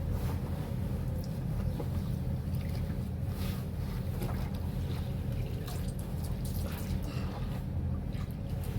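Water sloshing and splashing irregularly as bedsheets are washed in a basin, over a steady low rumble.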